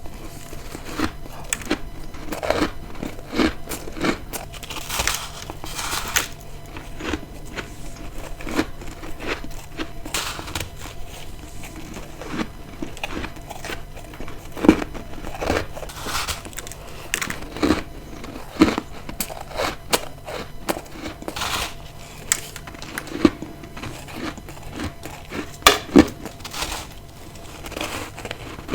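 Close-miked bites and chewing of freezer frost ice: a string of sharp, irregular crunches, some single loud snaps and some quick runs of crackly chewing.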